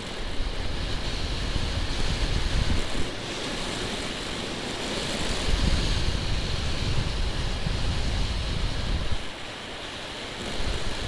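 Wind rushing and buffeting the microphone on a moving motorcycle, a steady gusty roar that eases for a moment about nine seconds in.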